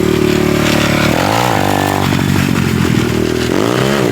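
Dirt bike engine running, blipped up and back down twice, about a second in and again near the end.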